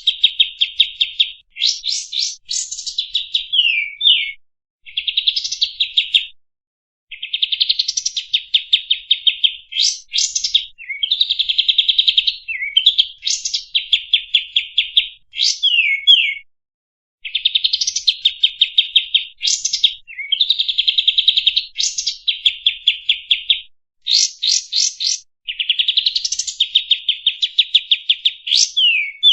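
Kapas tembak songbird singing its standard song: repeated phrases of a fast, buzzy trill with quick rising notes and down-slurred whistles, each phrase one to three seconds long with short silent breaks between.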